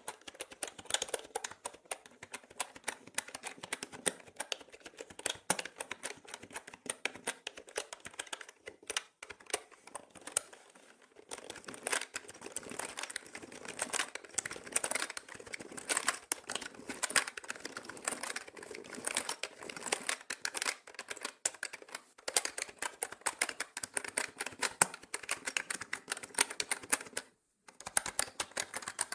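Fast, continuous typing on a mechanical keyboard: a dense run of key clicks and clacks. It thins out briefly about a third of the way in and stops for under a second near the end before carrying on.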